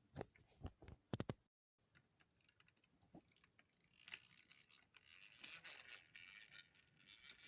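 Near silence broken by a few faint clicks and knocks in the first second or so, then soft scratchy rustling from about halfway on, like handling or movement.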